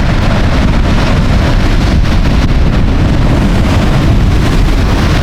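Atlantic surf waves breaking close by, a loud steady rush of water, with wind buffeting the microphone.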